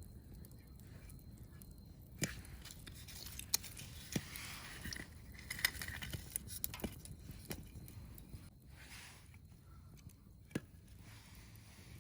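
Wood fire crackling, with scattered sharp pops over a soft hiss, busiest in the middle.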